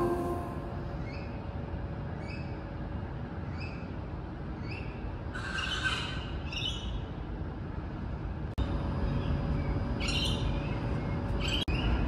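Outdoor birdsong over a steady low rumble: one bird repeats a short call about once a second, and louder chattering calls come in near the middle and again near the end.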